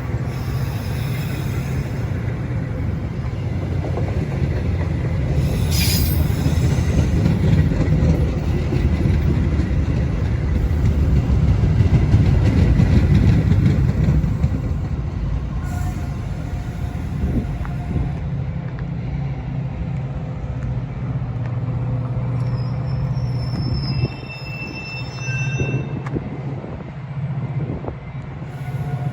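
Metra commuter train passing along the Union Pacific North line: a steady low diesel drone and the rumble of wheels on rail that grows to its loudest about twelve seconds in, then fades, with a little high-pitched wheel squeal.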